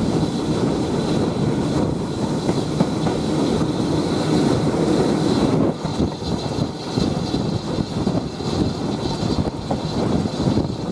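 A steam-hauled passenger train running along the line, heard from an open carriage window: a steady rumble of wheels on rail mixed with wind rush. The rumble eases slightly about six seconds in.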